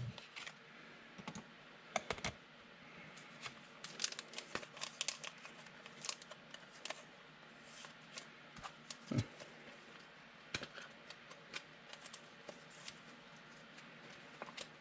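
Faint, irregular light clicks and taps scattered through the quiet, a few slightly louder than the rest.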